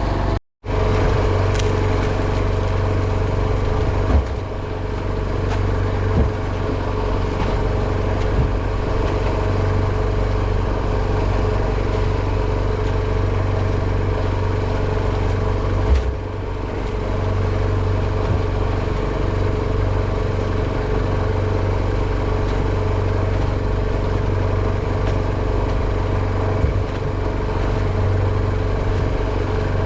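Steady drone of a small fishing speedboat's engine running at constant speed, with a few light knocks about 4, 6, 8, 16 and 27 seconds in.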